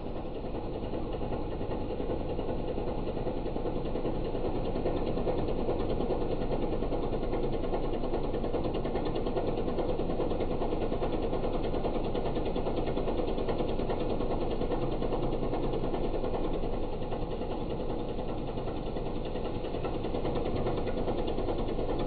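Diesel engine of earth-moving machinery running steadily with a fast, even clatter.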